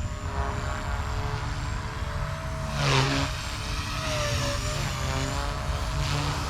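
Blade Fusion 180 Smart micro RC helicopter's electric motor and rotors whining in flight, the pitch sliding up and down as it maneuvers, with a louder swell about three seconds in.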